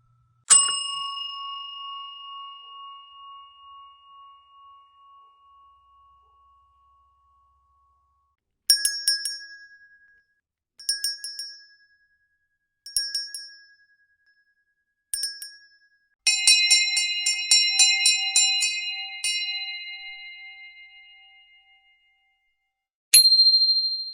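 A series of different bells. First a single bell strike rings out for about six seconds with a wavering decay. Then come four short bursts of quick ringing about two seconds apart, and a rapid run of strikes for about three seconds that rings down. A sharp single ding closes the series.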